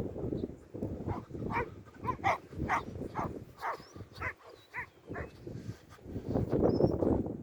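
Strong wind buffeting the microphone, heaviest at the start and again near the end, with a quick run of short, sharp calls in the middle.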